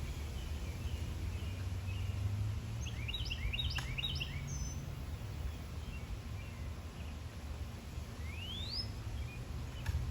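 Wild birds chirping over a steady low rumble of background noise. A quick run of short chirps comes about a third of the way in, and later a single rising whistle.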